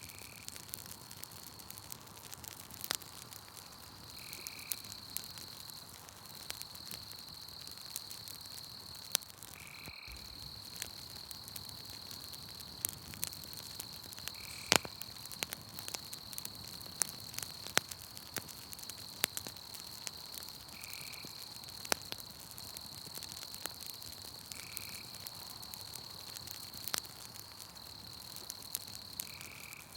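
Campfire crackling with scattered sharp pops, over a steady high insect trill that breaks off briefly now and then. A short lower call, typical of a frog or insect, repeats every few seconds, about seven times.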